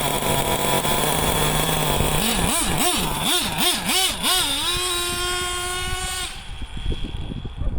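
Small nitro RC engine, a JL MAX .28 in a Traxxas T-Maxx, running steadily at idle, then blipped up and down about six times in quick succession, held at higher revs, and cut off suddenly about six seconds in.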